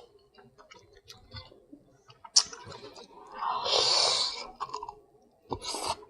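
Close-up eating sounds: soft chewing and small wet mouth clicks. A sharp click comes a little past two seconds in, and a longer rushing sound lasting over a second follows about halfway through.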